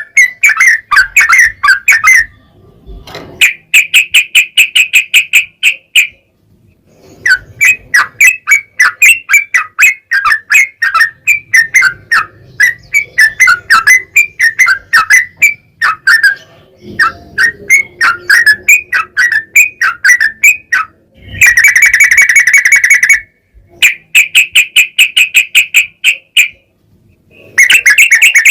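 Yellow-vented bulbul (trucukan) singing loudly in long rapid runs of notes, phrases of a few seconds each separated by short pauses, with a harsher, denser phrase about three quarters of the way through.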